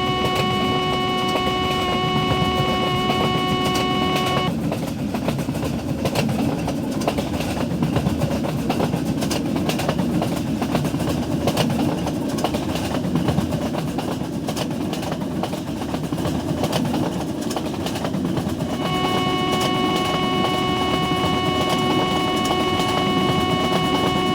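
Train passing at speed: continuous rumble of wheels on rails with a rapid clatter of wheel clicks. A locomotive horn sounds a steady multi-tone blast for the first four or so seconds, stops abruptly, and sounds again for the last five seconds.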